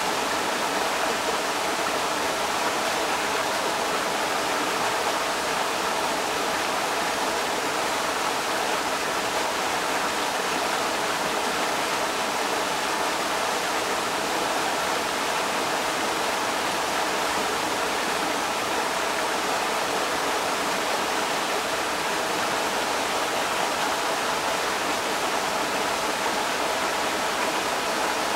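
Creek water rushing over rocks: a steady, even roar of running water.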